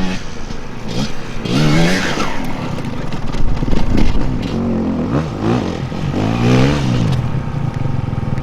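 Off-road dirt bike engines revving, the pitch climbing and dropping back again and again as the throttle is worked.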